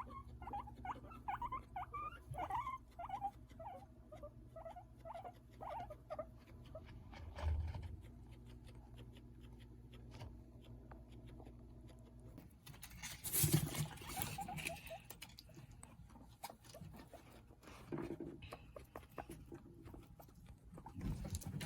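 Guinea pigs making a quick run of short, soft squeaky calls for the first several seconds. After that come scattered rustling and patter of movement, with a few louder bursts of rustling later on.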